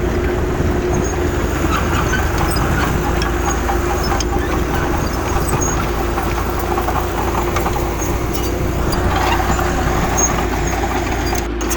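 Diesel engine of heavy earthmoving machinery running steadily, with scattered clattering over it.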